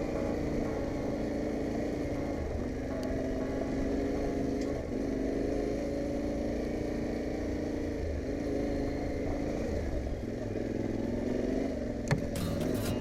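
Yamaha Ténéré 700's parallel-twin engine running at fairly steady revs on a forest gravel road, its pitch holding for a couple of seconds at a time with short dips as the throttle eases and opens, over a low rumble of wind and road noise. A sharp knock and rattle comes near the end.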